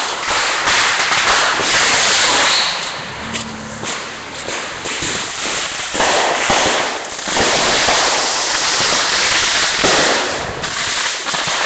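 Consumer fireworks going off in a dense barrage: continuous crackling with many rapid bangs, easing briefly about four seconds in and again around seven seconds.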